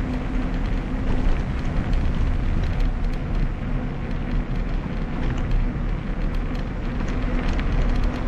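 Wind buffeting the microphone of a camera on a moving bicycle, with road rumble and scattered small ticks, and a faint steady hum that comes and goes.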